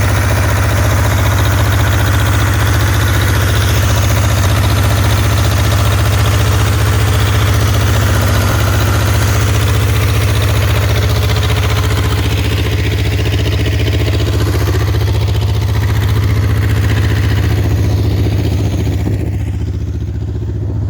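A two-cylinder 22 hp Deutz diesel engine running steadily under load, driving a water pump. Its higher-pitched noise fades somewhat in the last few seconds.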